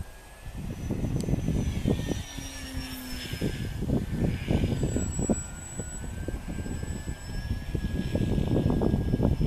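Styrofoam radio-controlled model airplane in flight: its motor and propeller make a thin high whine that slowly drifts up and down in pitch. Gusts of wind buffet the microphone with heavy rumbles.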